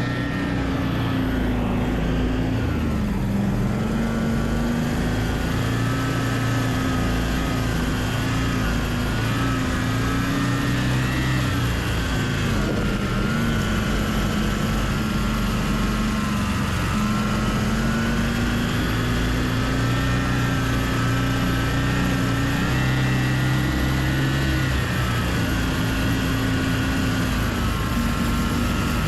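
Homemade snowmobile's Loncin engine running steadily under way, its pitch rising and falling slightly with the throttle and dipping briefly a few times.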